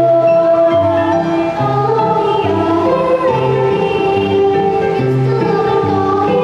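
Children's choir singing a Christmas carol over instrumental accompaniment, with a bass line moving under the voices.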